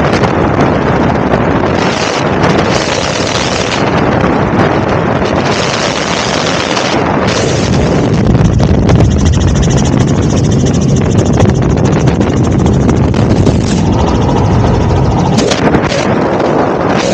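Loud, steady helicopter engine and rotor noise, with wind buffeting the microphone.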